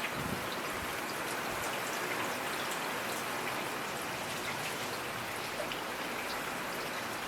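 Steady rainfall with scattered individual raindrops ticking on a surface.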